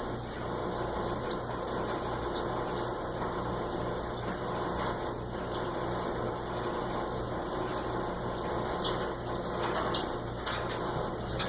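Steady mechanical room hum with a low mains-like drone, and a few faint, short, high-pitched clicks, most of them near the end.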